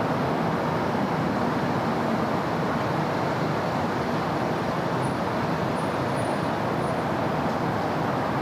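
Steady city road traffic: a continuous wash of engines and tyres from passing cars and buses, with no single vehicle standing out.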